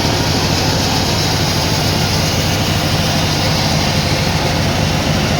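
Sawmill machinery running steadily: a loud, even mechanical hum with a dense rushing noise over it.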